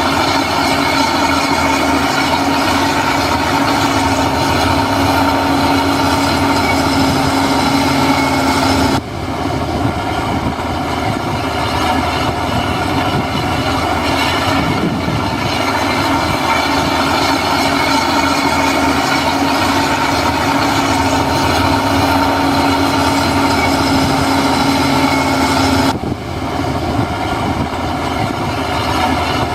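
Diesel engine of heavy earthmoving machinery running steadily, with a held tone over dense mechanical clatter. The sound shifts abruptly about nine seconds in and again near the end.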